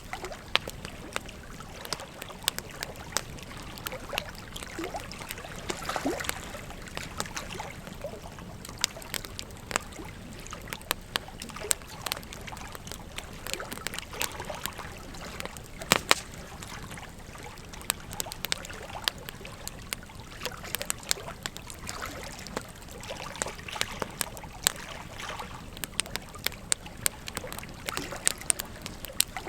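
Wood fire crackling, with irregular sharp pops and snaps, one of them louder about halfway through, over the steady rush of flowing river water.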